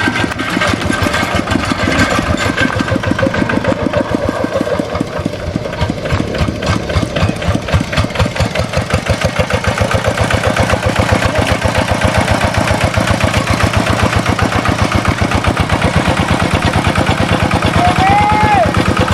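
Rice-field tractor engine running steadily, an even, fast putter of firing strokes. Near the end a brief rising-then-falling whistle-like tone sounds over it.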